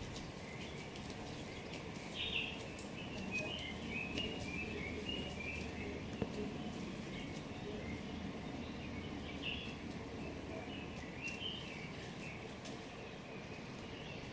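Birds chirping in short, scattered twittering phrases over a steady low background noise.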